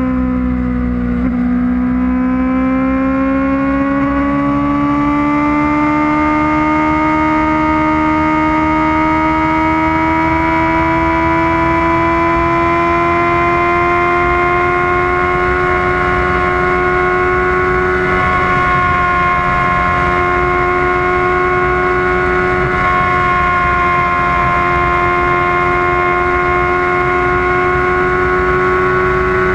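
Kawasaki ZX-6R's inline-four engine running at high, steady revs under way. Its pitch dips briefly about a second in, then climbs slowly and holds high and nearly level, over a low noisy rumble.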